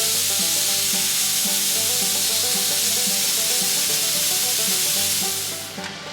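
Steam hissing out of a pressure cooker's release valve as the pressure in the oil-filled cooker is let off: a loud, steady hiss that stops suddenly about five and a half seconds in, leaving softer frying sizzle.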